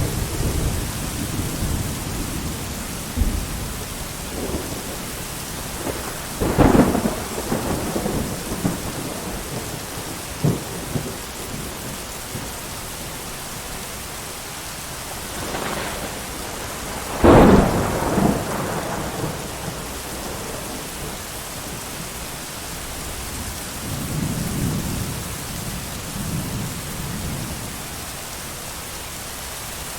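Thunderstorm: steady heavy rain with rolling thunder. Two sharp, loud claps come about 7 and 17 seconds in, with lower rumbles at the start and again around 25 seconds.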